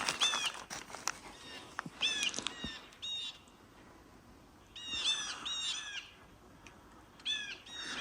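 Small birds calling: short, harsh, arched notes repeated in quick runs of two to four, several runs with quiet gaps between.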